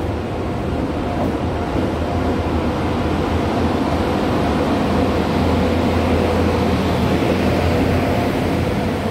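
Passenger train rolling slowly in along the platform: a steady rumble of the locomotive and wheels on the rails with a low hum, growing a little louder toward the middle.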